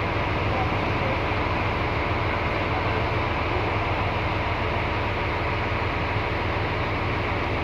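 Scania K360iB bus engine idling, a steady low hum.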